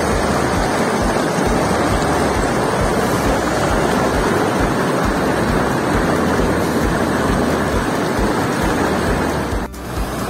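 Waterfall in heavy flow: a loud, steady rush of falling water with a deep rumble underneath. It cuts out for an instant near the end and comes back a little quieter.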